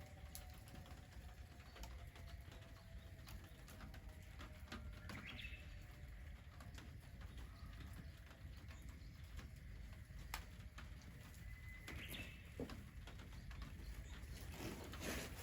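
Quiet rural ambience: a low steady rumble with scattered faint clicks and pops, and a short bird call twice, about five seconds in and again about twelve seconds in.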